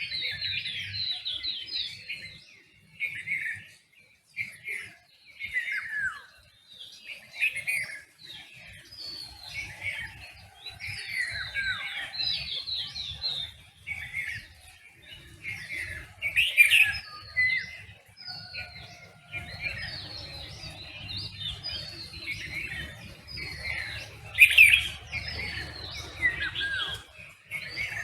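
Dawn chorus of several songbirds chirping and singing at once, with quick overlapping whistled phrases and twitters. Two louder calls stand out, about midway and near the end.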